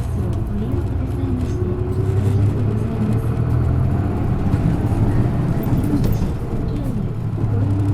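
Isuzu Erga PJ-LV234N1 city bus with its six-cylinder diesel engine running under way, heard from inside the cabin. A steady low drone carries higher tones that rise and fall in pitch as the bus drives.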